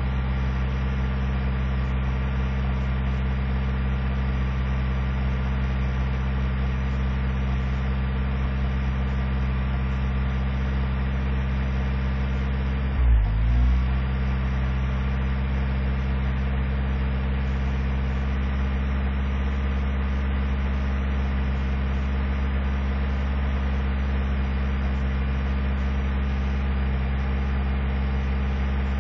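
Truck engine idling steadily while it warms up after a cold start in sub-zero cold. About 13 seconds in, the pitch dips briefly and the sound gets louder for a moment, then the idle settles back.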